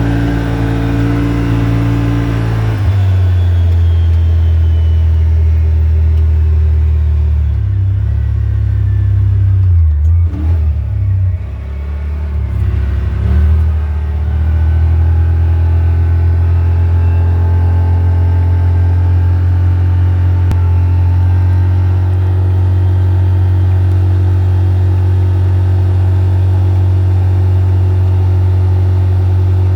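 A car's engine and road noise while driving, a steady low drone. Its pitch shifts about three seconds in, dips and wavers from about ten to fourteen seconds in, then settles back to a steady drone.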